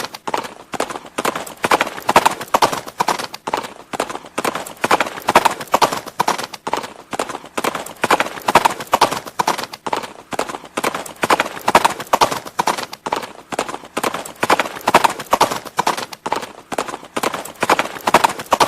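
Horse hooves clip-clopping in a steady, continuous rhythm of sharp knocks.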